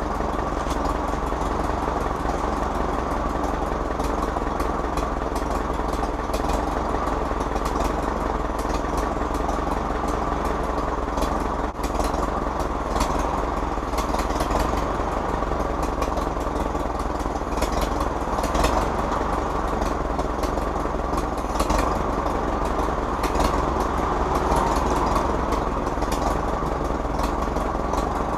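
Farmall H tractor's four-cylinder petrol/paraffin engine running steadily and smoothly after being revived from years of standing, the note swelling slightly a few times.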